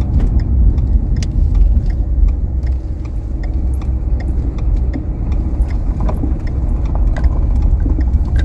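Road noise inside a moving car: a steady low rumble from the tyres and engine, with many light clicks and rattles scattered throughout.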